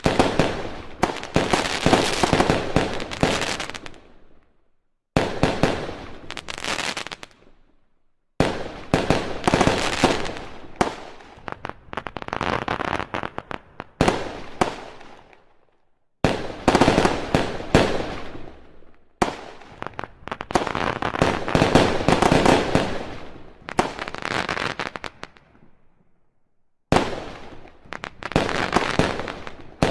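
Fireworks going off in rapid volleys of sharp cracks and bangs, each run lasting a few seconds, with short silent gaps between them.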